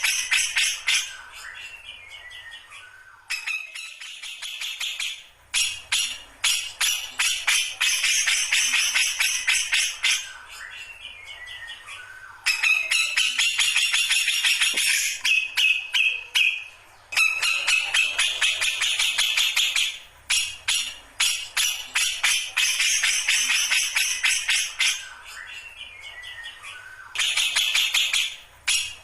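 Grey-cheeked bulbul (cucak jenggot) singing in repeated bouts of rapid, harsh chattering notes, each bout several seconds long, with brief pauses and short falling runs of notes between.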